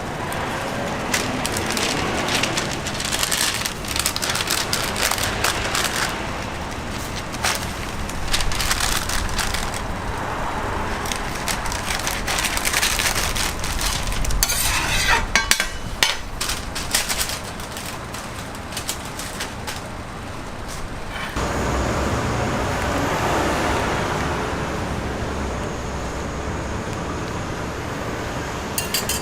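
Street-stall cooking sounds: irregular clattering, crunching and scraping of utensils and food over steady traffic noise. The sound changes abruptly about 21 seconds in, to a smoother steady hum of traffic.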